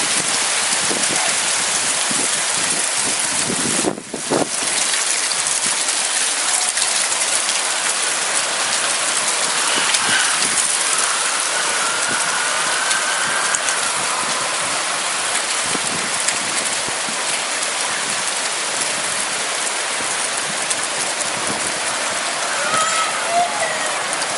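Rain falling steadily in a downpour, a dense, even hiss of drops on surfaces. The sound dips out briefly about four seconds in, then carries on.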